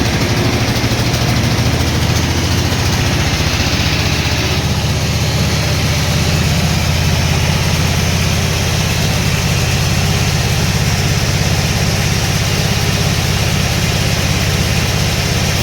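Heavy sawmill engine running steadily with a deep, rapid, even pulse.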